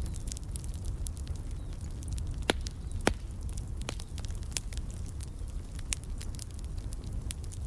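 Fireplace fire crackling steadily over a low rumble, with two louder pops about two and a half and three seconds in.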